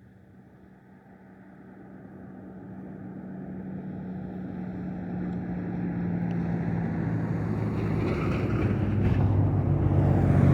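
Vehicle engine hum and road noise, growing steadily louder throughout.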